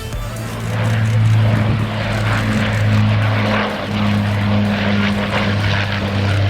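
Propeller-driven aircraft flying over, its engine a steady low drone that swells slightly.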